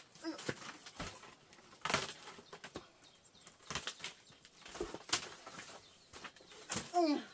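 Scattered sharp knocks and rustles, with a short bird call falling in pitch near the end.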